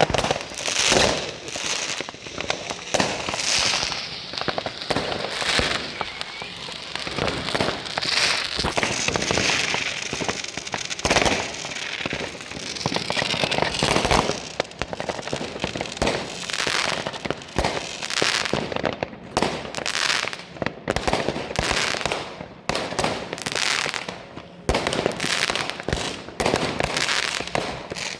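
Many fireworks and firecrackers going off at once: a dense, continuous run of overlapping bangs with crackling between them.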